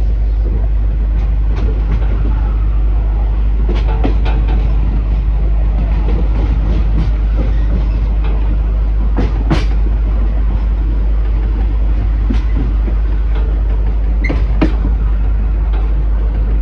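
Heritage railway train running along the track: a steady low rumble with a few sharp clanks from the wheels and couplings, about 4, 9½ and 15 seconds in.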